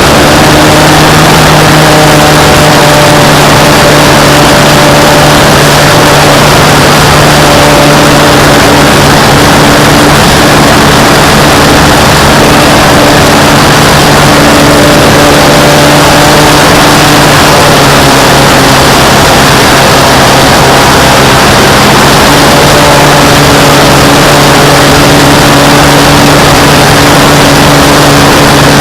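Radio-controlled model airplane's motor and propeller running steadily at high power, heard very loud from a camera mounted on the plane, with heavy wind rush over the microphone; the pitch shifts slightly a couple of times.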